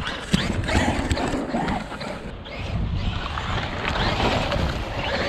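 Traxxas MAXX electric RC monster truck driving over rough ground, its brushless motor whining up and down under bursts of throttle, with wind buffeting the microphone.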